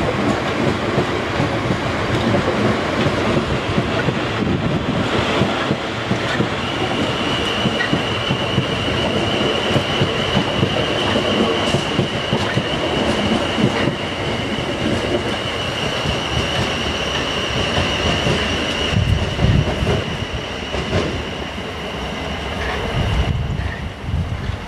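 South Western Railway class 450 Desiro electric multiple units running over pointwork, wheels clattering over the rail joints and crossings. A steady high-pitched wheel squeal sets in about seven seconds in and stops near the end.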